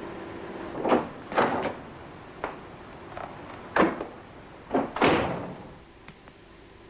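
A series of knocks and thumps, about six in four seconds, with the loudest and longest one about five seconds in, over a steady low hum.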